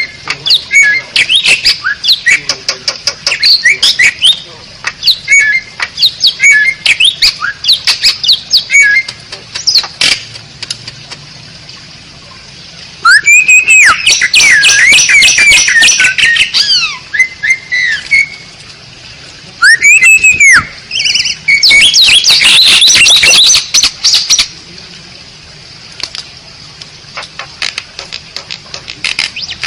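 Asian pied starling (jalak suren) calling: a run of quick chattering notes and clicks, then two loud bouts of gliding whistles and harsh squawks, about halfway in and again a few seconds later.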